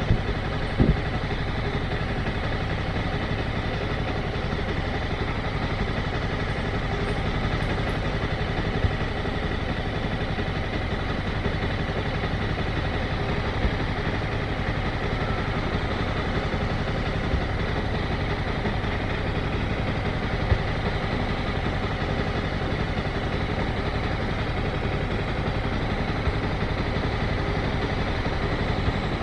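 Motorcycle engine running steadily at low, even revs, with a few brief knocks scattered through.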